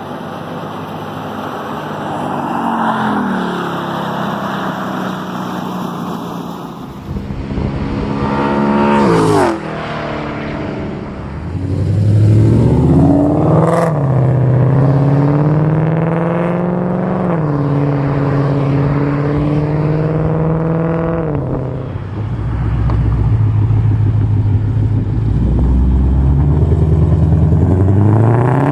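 2016 Mustang GT's 5.0 V8 exhaust in a series of edited clips: the engine revs up and falls back several times, and about nine seconds in the car passes by at speed, its pitch dropping sharply. Toward the end it is held at a steady drone before revving up again.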